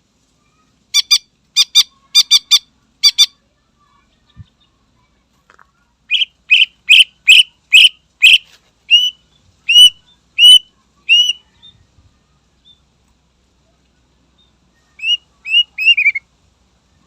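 Cucak ijo (green leafbird) singing in separate bursts. It gives a run of harsh doubled notes, then a fast series of loud whistled notes that slows into downslurred whistles, and a short run of quick notes near the end.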